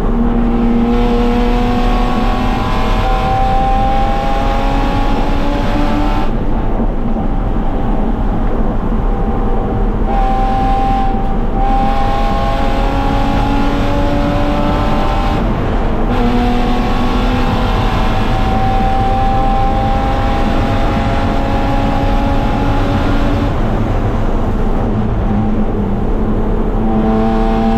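BMW E36 325is race car's 2.5-litre straight-six, heard from inside the cabin while lapping a track. The engine pitch climbs steadily under acceleration, then drops away sharply about five times.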